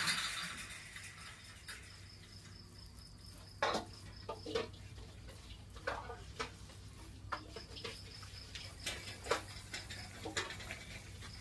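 Crickets trilling high and steady in stretches that stop and start, with scattered light knocks and clatter of household things being handled.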